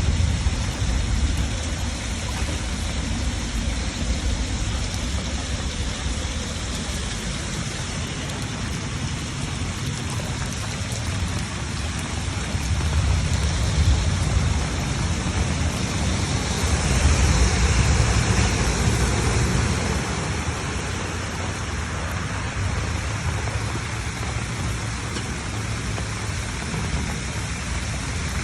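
Rain and rushing floodwater making a steady hiss over a deep rumble, swelling louder for several seconds midway.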